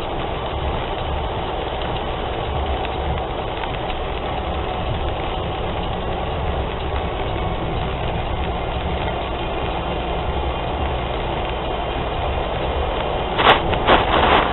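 Steady road noise of a car driving on a wet motorway, tyres and engine, with a low rumble. A few brief, louder sharp noises come near the end.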